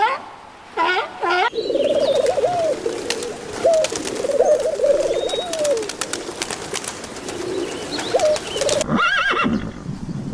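Farm animal calls: a few short, quickly repeated calls at the start, then a long run of low warbling calls, and after a cut near the end a different, higher call.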